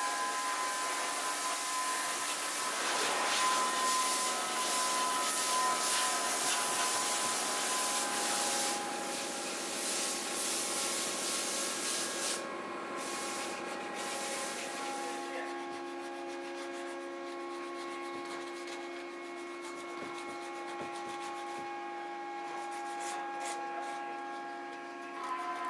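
Sandpaper rubbed by hand over a carved wooden fireplace bracket, a dense scratchy sanding sound that thins out to lighter, sparser strokes about fifteen seconds in.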